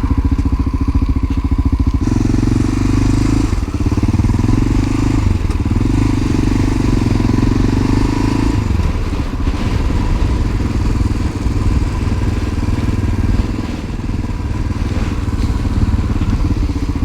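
Honda NX650 Dominator's single-cylinder four-stroke engine running under way, with the engine note changing about two seconds in and again after about nine seconds as the throttle or gear changes.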